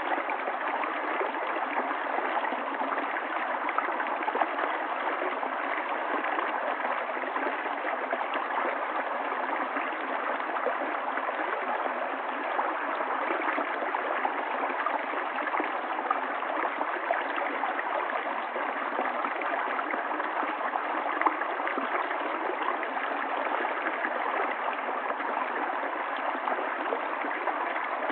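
River water flowing and gurgling over stones, a steady babbling stream sound.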